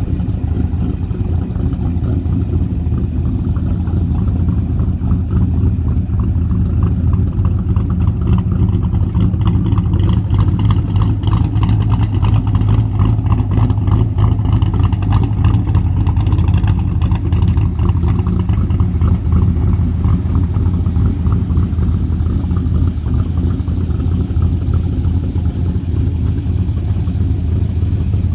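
Twin-turbo 5.3-litre LS V8 of a 1970 Chevelle restomod idling steadily.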